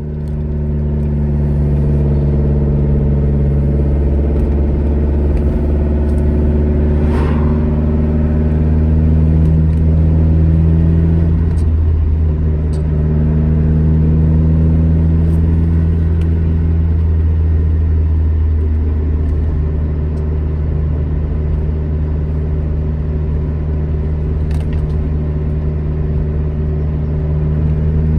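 Alfa Romeo GT Junior's twin-cam four-cylinder engine running steadily on the road, its note rising and falling a few times. There is a sharp click about seven seconds in.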